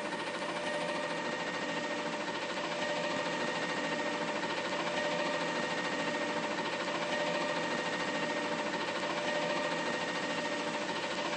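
Mack LR front-loader garbage truck running steadily, an even mechanical drone with a constant whine.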